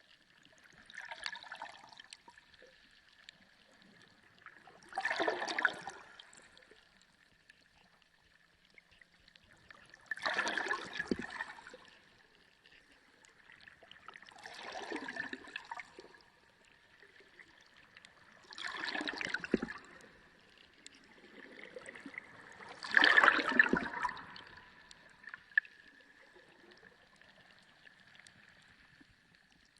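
Sea water sloshing and washing in six surges, one about every four to five seconds, over a faint steady high tone.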